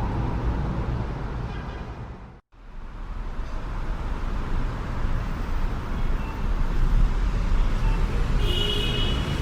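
City street traffic ambience: a steady rumble of passing vehicles that fades out and breaks off about two seconds in, then a second traffic recording begins and builds. A brief high-pitched tone sounds near the end.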